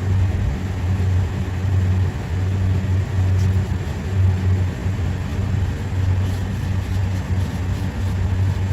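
Steady low mechanical drone of a running machine, swelling and dipping slightly, with a few faint light clicks.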